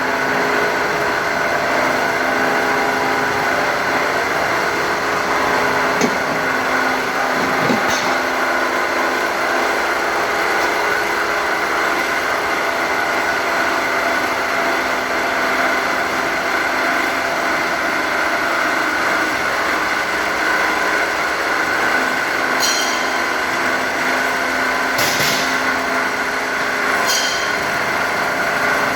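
Automatic muffler-pipe cutting machine running steadily with a constant machine whine, and a few short sharp clicks along the way.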